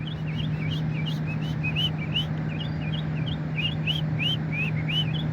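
A bird calling in a rapid, continuous string of short high chirps, several a second, over a steady low hum.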